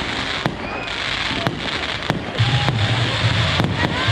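Fireworks display going off: repeated sharp bangs over a dense crackling hiss.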